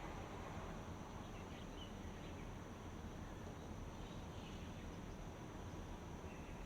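Steady outdoor ambience: a continuous high-pitched insect drone over a low rumble, with a few faint short bird chirps.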